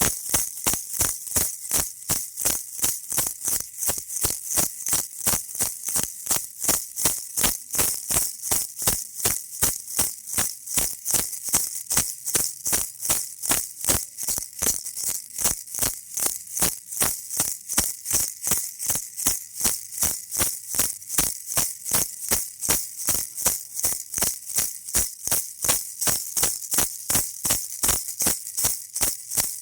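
Baby rattle toy shaken in a steady, even rhythm, about three shakes a second, each shake a bright, hissy rattle.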